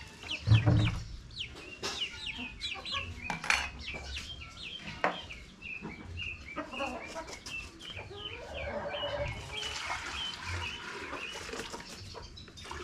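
Chickens clucking and calling, a quick string of many short high calls, with a few knocks among them.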